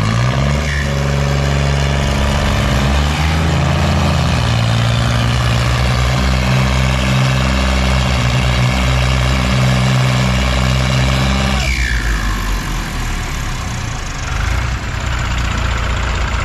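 Heavy diesel engine revved up and held at high revs under load for about twelve seconds, then dropping back to a lower speed.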